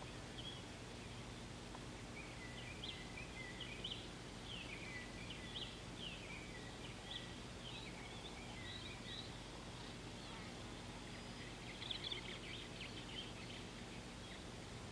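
Wild birds calling: a string of short chirps and quick whistled notes, with a brief louder flurry about twelve seconds in, over a steady low hum.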